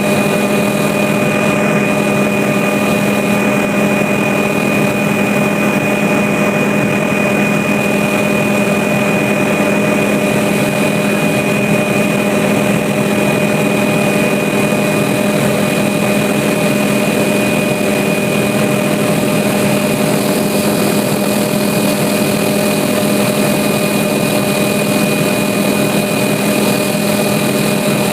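Aircraft engine droning steadily, a constant hum with a few fixed tones over a rushing noise and no change in speed.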